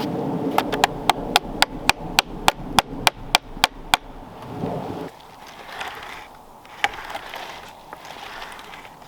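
A quick, even run of about a dozen sharp wooden knocks, roughly four a second, lasting about three and a half seconds, then a few faint scattered knocks.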